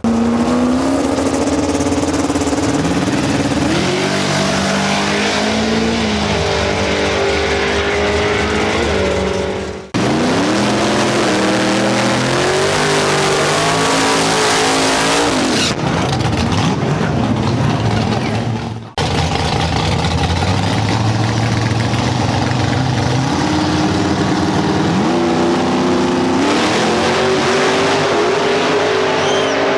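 Drag-racing cars accelerating hard down the strip, engine pitch climbing and dropping back at each gear change, in three separate passes cut one after another about 10 and 19 seconds in.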